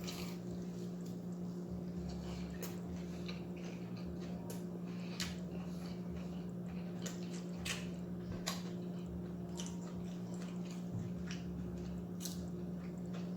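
Close-up chewing of a flour-breaded fried chicken wing: irregular wet smacks and small crunchy clicks, with a steady low hum underneath.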